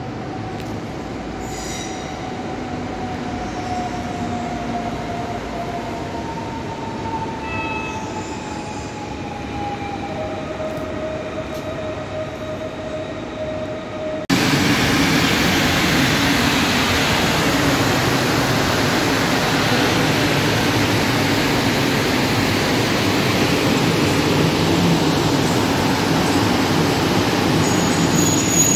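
Electric trains moving through a station. First several thin tones drift slowly downward, typical of wheel squeal and traction motors. About halfway, an abrupt cut brings a loud, steady rush of a PKP Intercity electric locomotive passing close, with a high whine near the end.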